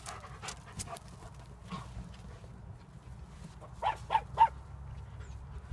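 Havanese dog giving three quick, short barks about four seconds in, with faint scuffs and clicks of the dogs moving about.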